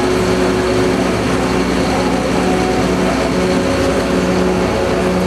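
Turntable ladder truck's diesel engine running steadily, with a constant hum over it.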